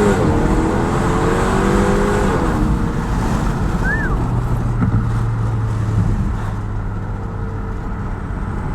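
2018 Honda Accord 2.0T's turbocharged four-cylinder with a Borla S-type exhaust at full throttle: the revs drop at a gear change right at the start, climb again for about two seconds, then fall and settle into a steady lower drone.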